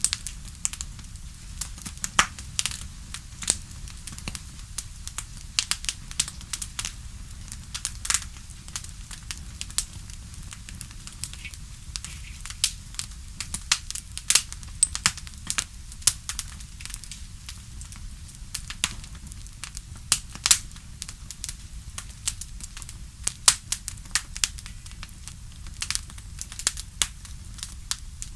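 Wood fire in a fireplace crackling: irregular sharp pops and snaps, some much louder than others, over a steady low rumble.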